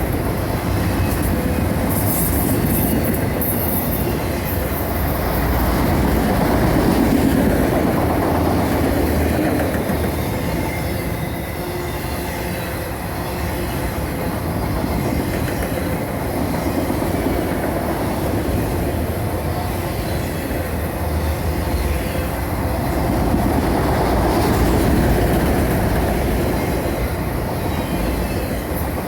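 Autorack freight cars rolling past on the rails: a steady rumble of wheels on track with clickety-clack. Brief high wheel squeal comes about two to four seconds in.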